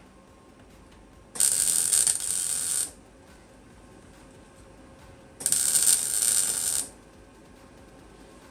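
Two welding tacks on the van's steel body panel, each a burst of crackling about a second and a half long, the first about a second in and the second about four seconds later, tacking a new metal repair section in place.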